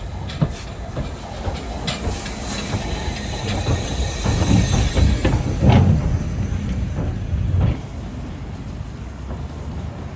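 Steam locomotive train passing close by, with its exhaust beats, hissing steam and wheels clattering on the rails. It builds up to a loud peak and drops away abruptly about eight seconds in.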